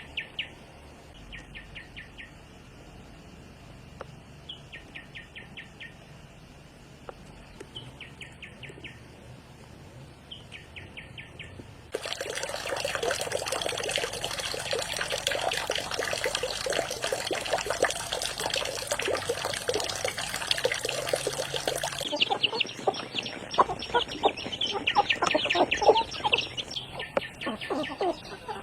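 A small bird repeats a short, rapid trill every few seconds. About twelve seconds in, a steady rush like pouring or running water starts suddenly and stops just as suddenly about ten seconds later. Irregular knocks and rattles follow.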